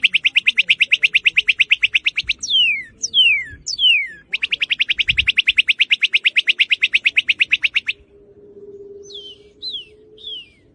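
Northern cardinal singing: sharp downslurred whistles alternating with long, rapid trills of about a dozen notes a second. The last trill stops about eight seconds in, and a few short downslurred notes follow.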